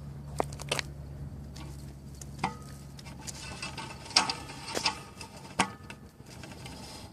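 Scattered clicks, taps and knocks of hands handling equipment close to the phone's microphone, some in quick little clusters, over a low steady hum that fades out about four seconds in.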